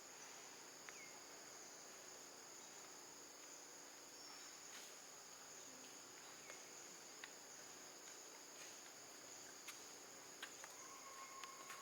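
Faint, steady high-pitched chirring of crickets or other insects, with a few soft clicks.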